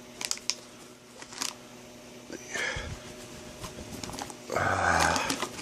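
Handling noise from unpacking: light clicks and crinkles of packaging and items being picked up and set down, with a louder rustle about four and a half seconds in.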